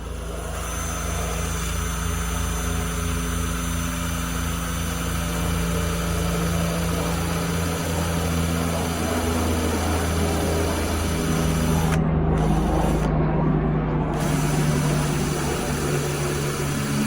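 Cordless drill driving screws into wood, its motor running in a long steady whine that shifts pitch a couple of times as it loads up. It struggles to drive the screws, which the user thinks is a battery in need of charging.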